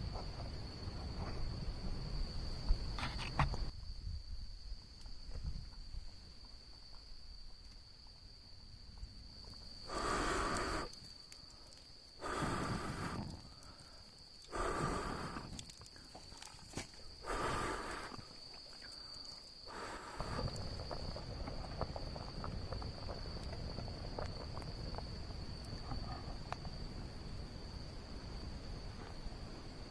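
Insects trilling steadily on one high note, with four short rustling sounds, each about a second long, about two and a half seconds apart in the middle, over a low rumbling background.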